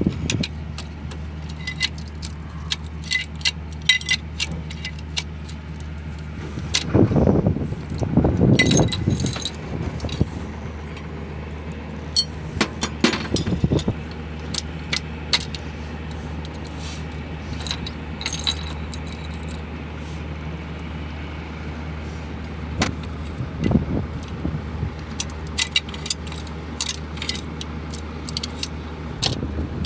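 Metal hand tools and engine parts clinking and rattling again and again over a steady low hum, with a few louder knocks and rumbles about seven to nine seconds in and again near the middle.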